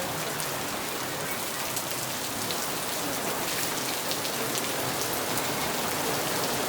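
Heavy rain pouring down steadily, with many sharp drop strikes landing close to the microphone.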